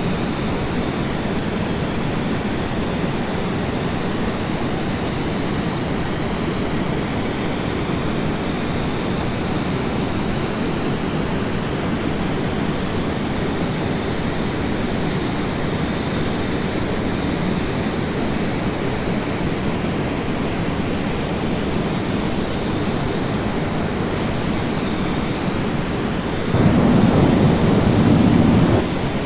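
Steady rush of airflow and aircraft engine noise picked up by a camera mounted on the outside of a military aircraft's fuselage in low-level flight. The rush swells louder for about two seconds near the end.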